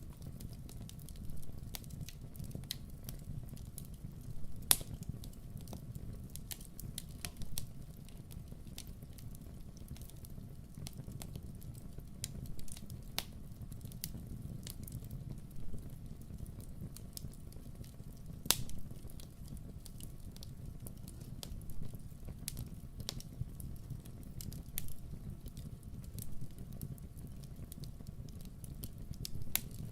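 Campfire burning: a steady low rumble of flames with frequent sharp crackles and pops, two of them louder than the rest, about five seconds in and again past halfway.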